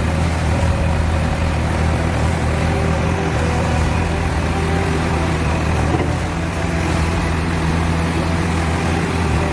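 Bulldozer's heavy diesel engine running steadily at a constant low pitch.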